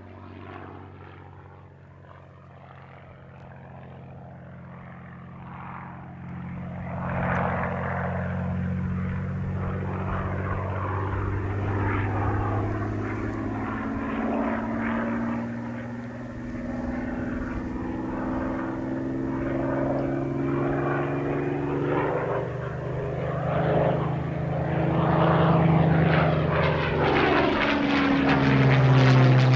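Supermarine Spitfire Mk VIII's Rolls-Royce Merlin V12 engine flying past: faint at first, growing louder from about seven seconds in, its note sliding up and down in pitch as the aircraft manoeuvres and passes.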